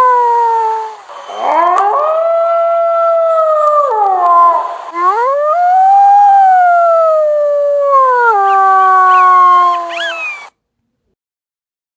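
Wolves howling: long, clear howls that swell up in pitch, hold, then slide down, one after another, with other wolves joining in higher, overlapping howls near the end. The howling cuts off suddenly about two-thirds of the way through the last seconds, leaving silence.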